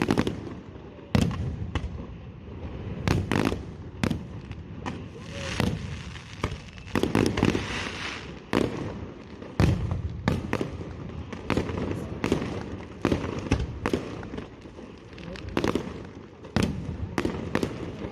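Aerial fireworks bursting: a quick, irregular run of sharp bangs, each followed by a low boom. A stretch of crackling hiss comes near the middle.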